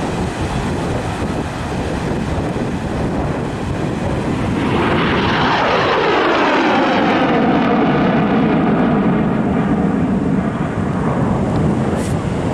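An airplane flying past. Its engine sound swells about four seconds in and then slides steadily down in pitch as the plane passes by.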